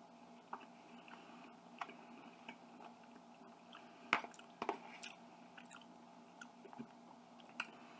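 Faint chewing of chicken and broccoli, with a few light clicks of a metal fork against a plastic food container scattered through it; the loudest clicks come twice, a little past the halfway point.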